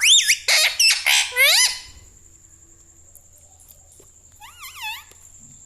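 Indian ringneck parrot calling: a quick run of sharp, rising calls in the first two seconds, then after a pause one shorter wavering call about four and a half seconds in.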